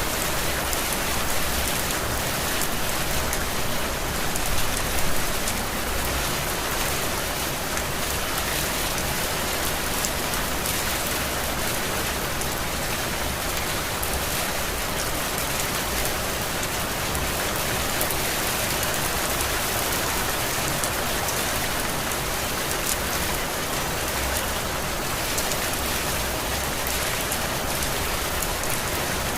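Heavy tropical rain falling steadily, a dense, even hiss.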